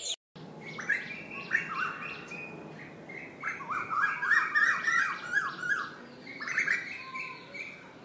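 Birds singing: phrases of quick, whistled, slurred notes, repeated and strongest in the middle.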